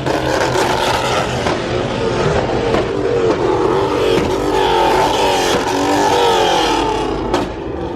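Car engine revving hard, its pitch wavering up and down over a loud rush of noise, easing off briefly near the end.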